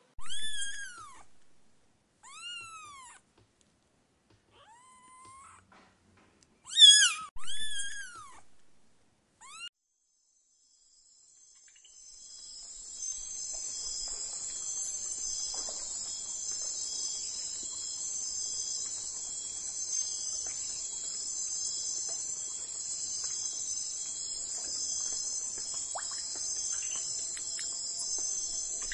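A series of short, high-pitched animal cries, each rising then falling in pitch, over the first ten seconds. Then, from about twelve seconds in, a steady, pulsing chorus of crickets.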